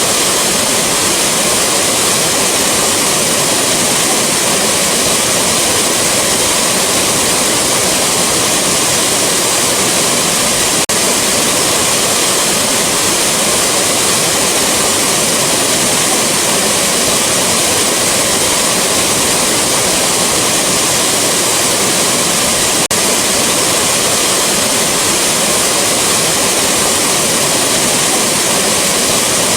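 Rushing waterfall: a loud, steady, unbroken rush of falling water.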